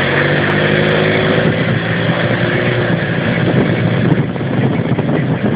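Car engine running steadily while driving, with a continuous hum and road noise.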